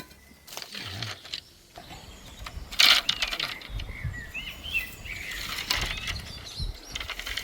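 Scattered sharp knocks and clatters, the loudest about three seconds in, with short high chirps in the middle.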